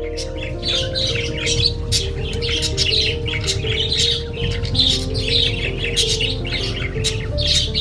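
A small bird chirping and squawking in quick, busy calls over soft, sustained music notes.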